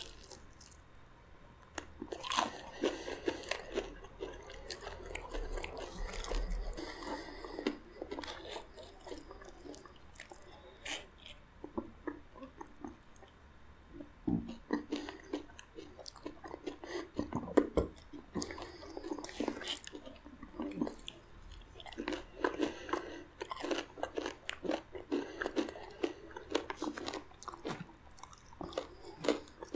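Close-up chewing and biting of fried chicken: irregular crisp crunches of the fried coating mixed with wet mouth sounds.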